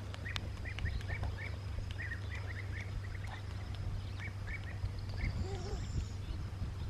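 Small birds chirping in short, quick notes that come in little clusters, over a steady low rumble.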